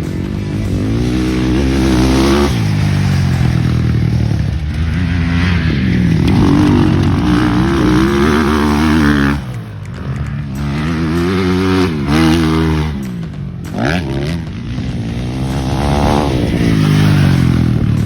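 Motocross bike engine on the throttle, pitch climbing and dropping again and again as it revs up and shifts, with the throttle briefly shut off twice, about halfway through and again a few seconds later.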